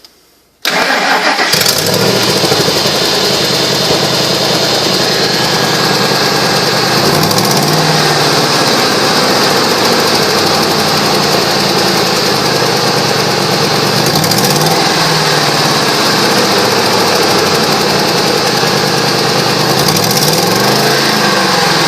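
2001 Ford F150 engine starting about a second in, then idling steadily with a few brief rises and falls in pitch. The engine has an exhaust leak at the right-hand exhaust manifold.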